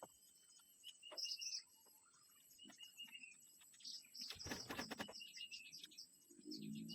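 Faint forest birdsong: small birds repeating short chirps with falling tails, over a steady high thin tone. About halfway through comes a brief burst of crackling noise, and a low-pitched sound enters near the end.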